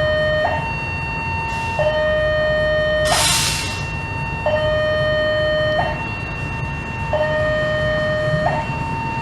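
Two-tone electronic warning alarm alternating steadily between a high and a low tone, each held about 1.3 seconds, over a low rumble. A short hiss breaks in about three seconds in.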